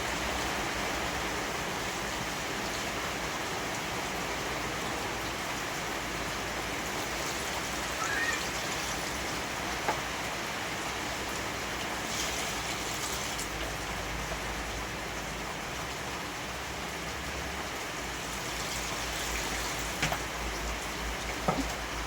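Heavy rain falling steadily, a dense even hiss, with a few brief knocks or drips near the end.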